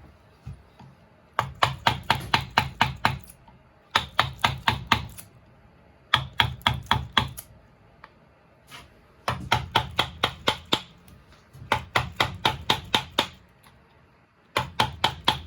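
Wood being carved: runs of quick, sharp strokes into the wood, about seven a second, each run lasting one to two seconds with short pauses between.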